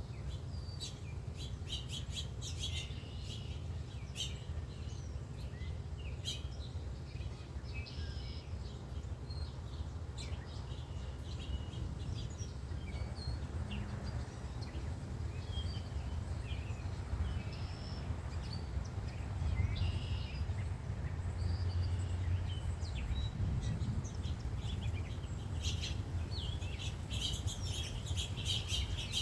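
Several songbirds chirping and calling, with calls coming thick at the start and again near the end. A steady low rumble runs underneath and swells slightly after the middle.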